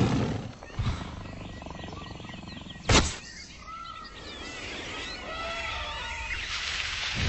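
Animal sounds: a loud burst at the start, a sharp knock about three seconds in, then a run of short chirping calls.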